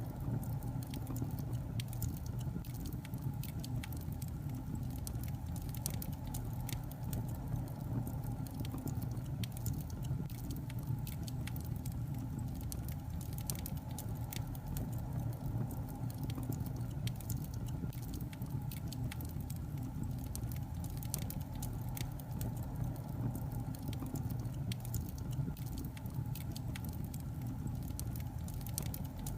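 Wood fire crackling: a steady low rumble of burning logs with frequent irregular sharp pops and snaps.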